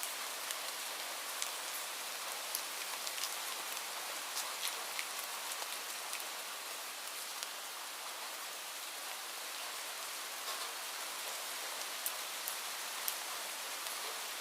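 Steady rainfall: a continuous hiss of rain with many separate drops ticking sharply on a surface.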